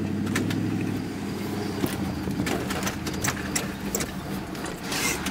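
Dodge Charger SRT8's 6.4-litre HEMI V8 running steadily at low revs, heard from inside the cabin.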